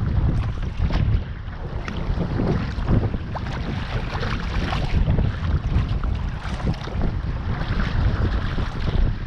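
Wind buffeting the microphone in a loud, uneven rumble, over sea water splashing and lapping around a kayak.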